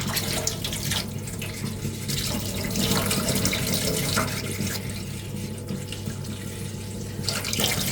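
Hand sanding of a putty-coated 3D-printed armour ring: sandpaper scratching back and forth against the part in stretches of strokes with short pauses between.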